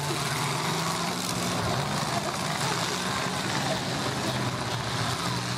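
Engines of several demolition derby cars running together at once, a steady drone.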